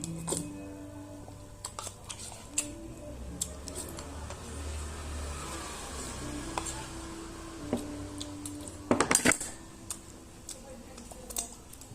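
Cutlery clinking and scraping against a plate while eating, with scattered clicks and a short burst of louder clatter about nine seconds in.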